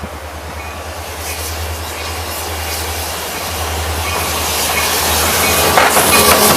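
Approaching freight train led by diesel locomotives: a deep steady engine rumble growing steadily louder, with wheels clicking and clattering on the rails that get stronger near the end.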